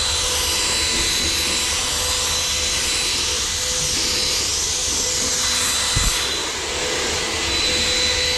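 A powered cleaning machine running steadily, giving a loud hissing rush over a constant motor whine, with a brief low knock about six seconds in.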